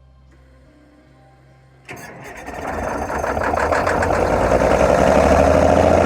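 Heavy truck engine starting about two seconds in: it catches with quick firing pulses and builds to a steady, loud run.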